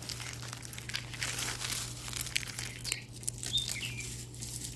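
Dry eggshells being crushed and crumbled, a dense run of small crackling crunches. A bird chirps briefly about three and a half seconds in.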